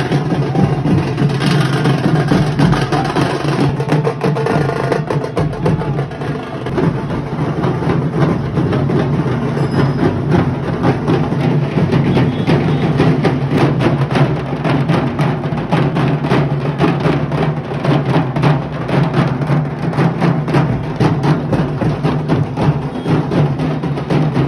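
Music carried by fast, steady drumming, with a dense run of beats that grows more regular after the first few seconds.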